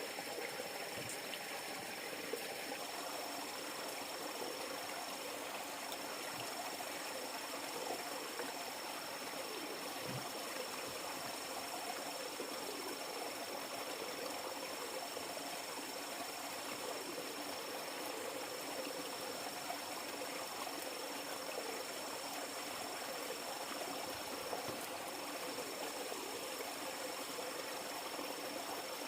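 River water flowing steadily, with a thin high-pitched tone held over it throughout.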